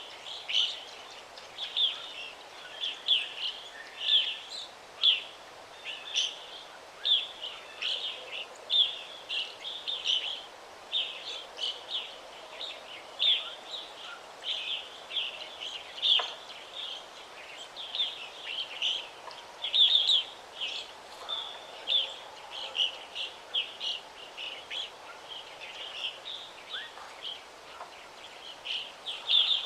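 Songbirds chirping in quick, continuous series, several short high notes a second, over a faint steady hiss of forest ambience.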